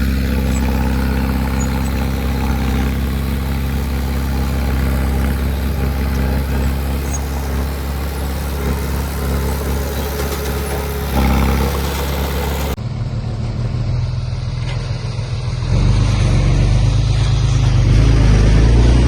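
Diesel engine of heavy earthmoving machinery running steadily. About two-thirds of the way through the sound cuts abruptly to another engine, which grows louder toward the end.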